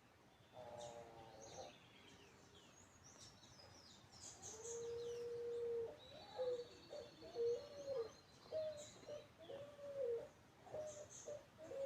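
Birds calling: scattered high chirps over a low whistled call, one long steady note and then a run of short notes that rise and fall about twice a second.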